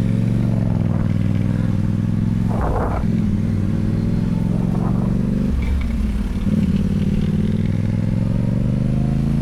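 Motorcycle engine running and revving as the bike pulls away, its pitch rising and falling gently.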